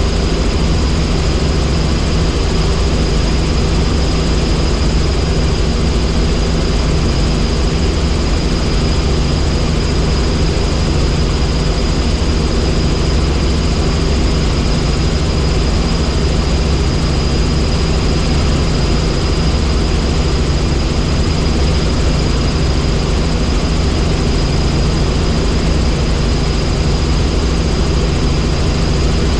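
Tour helicopter in flight: a steady, loud drone of rotor and engine, with a thin steady high whine above it.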